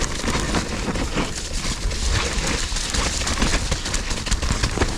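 Mountain bike riding over a rough woodland trail: a continuous clatter of quick knocks and rattles from tyres, chain and frame, with wind rumbling on the microphone.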